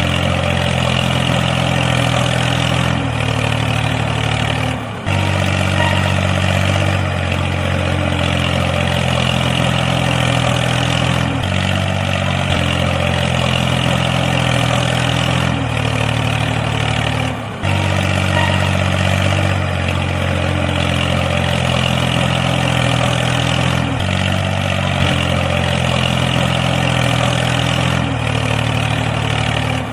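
Tractor engine running steadily at idle, its low note shifting slightly every second or two, with brief drops about 5 and 17.5 seconds in.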